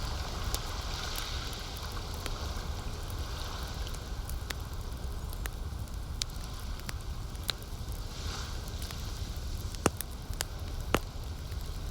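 Campfire crackling with scattered sharp pops, two of them louder about two-thirds of the way in and near the end, over a steady low wash of lake water.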